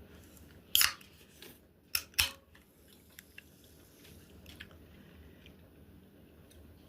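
A person tasting food: a few short sharp clicks and scrapes of eating, about a second in and twice around two seconds in, then faint chewing.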